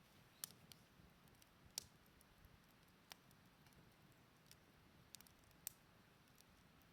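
Faint, irregular sharp clicks and ticks, about a dozen spread unevenly, the loudest a little under a second in, near 2 seconds and near 6 seconds, over a low steady hiss.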